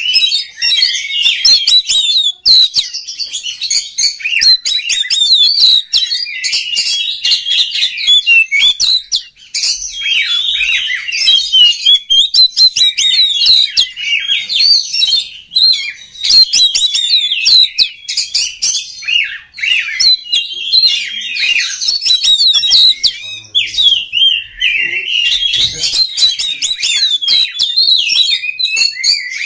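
Oriental magpie-robin (kacer) in full song: a fast, almost unbroken stream of varied whistles, trills and chattering notes, with only brief pauses.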